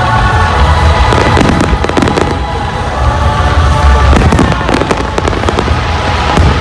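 Fireworks display going off: a continuous run of crackling bursts and bangs over a deep rumble, with music playing underneath.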